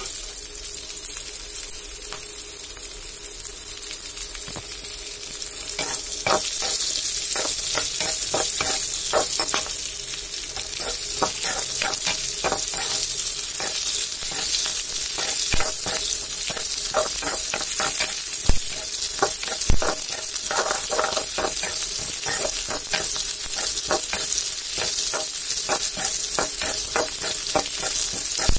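Green chillies sizzling as they fry in a metal wok, stirred and tossed with a perforated steel spatula that scrapes and clinks against the pan. The stirring gets busier about six seconds in.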